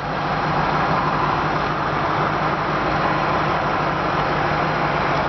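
A 2006 Ford Mustang GT's 4.6-litre V8 idling steadily, a constant low hum mixed with outdoor background noise.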